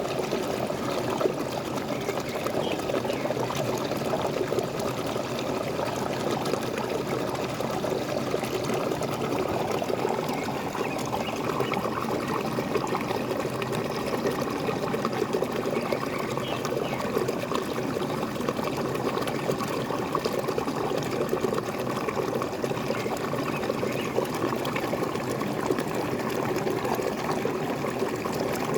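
Waterfall water splashing and gurgling steadily.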